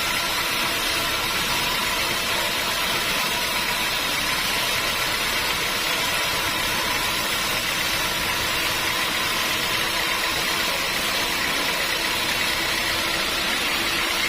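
Sawmill machinery running steadily: an even motor or engine drone with a hiss on top, unchanging throughout.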